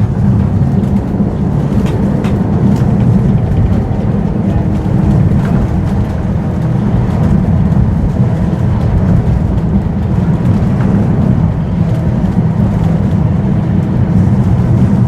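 Vintage tram running along the line: a steady low rumble from the motors and the wheels on the rails, with a few faint clicks.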